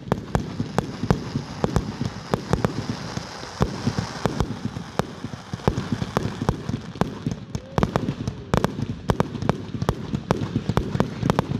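Fireworks going off in quick succession: a dense run of sharp cracks and pops, several a second, with a crackling hiss in the middle stretch.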